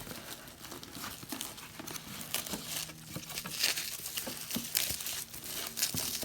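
Packaging being unwrapped by hand: irregular crinkling and rustling with short tearing sounds as a shipped watch package is opened.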